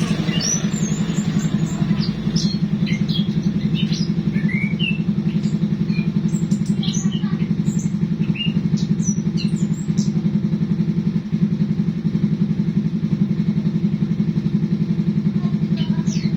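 A motor running steadily with a fast, even pulse, and small birds chirping in short, scattered high calls over it, mostly in the first half.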